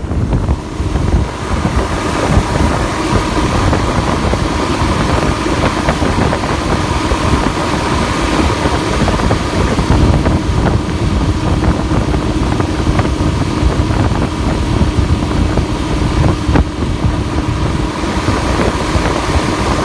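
Boat engine running steadily at speed, a constant whine over a low rumble, with wind buffeting the microphone.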